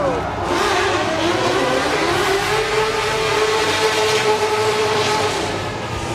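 A show vehicle's engine revving: its pitch climbs over the first couple of seconds, holds high and steady for about three seconds, then falls away near the end.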